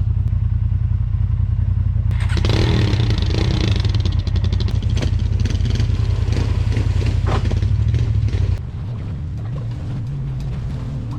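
Off-road vehicle engine running under way. From about two seconds in, a louder rushing, rattling noise rides over it. About eight and a half seconds in, the sound drops off to a quieter level.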